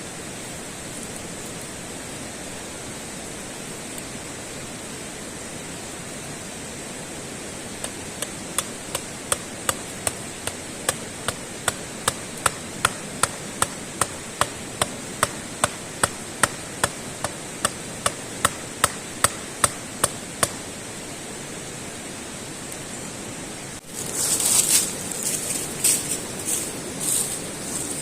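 A steady run of about thirty sharp, evenly spaced knocks, two to three a second, from a tool striking repeatedly as camp work goes on, over a steady rushing background. Near the end, a louder stretch of irregular rustling and scraping.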